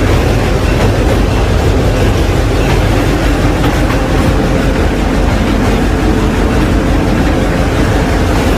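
Passenger train running along the track: a steady loud rumble of wheels on rail with a faint steady hum.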